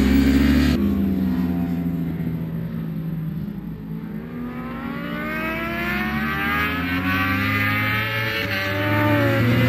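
Racing superbike engines at high revs. The pitch sags around the middle, then climbs again through short breaks that sound like upshifts near the end.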